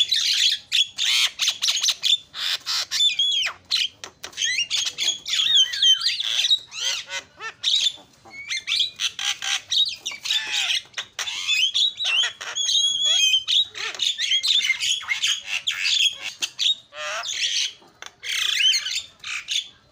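Javan myna (jalak kebo) singing a continuous, rapid medley of chattering notes, whistled slides and harsh squawks.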